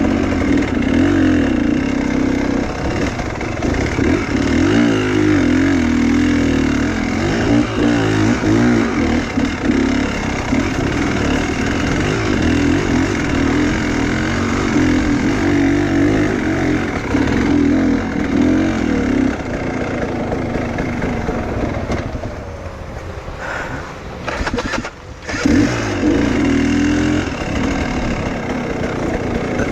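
Enduro motorcycle engine running with the throttle working up and down. It eases off about three quarters of the way through, almost cuts out for a moment, then picks up again.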